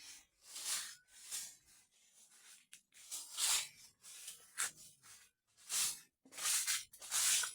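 Footsteps rustling and crunching through dry vegetation, with an uneven series of short scuffs about once or twice a second.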